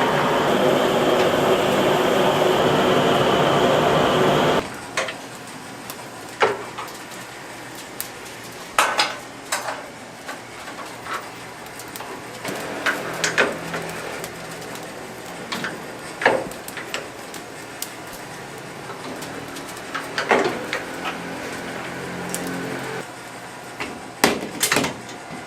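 A loud steady rushing noise that cuts off suddenly about four and a half seconds in, followed by scattered sharp clinks and knocks of dishes and utensils.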